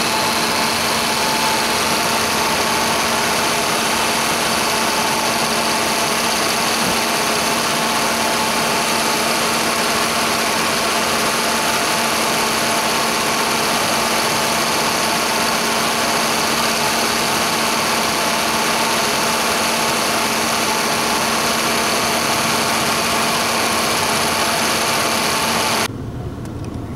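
Car engine idling close up in the engine bay, with the accessory belt and A/C compressor turning: a steady running noise with a constant hum, which stops abruptly near the end.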